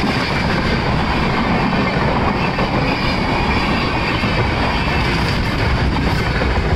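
Suburban local train running past close by: a steady, loud noise of wheels on the rails.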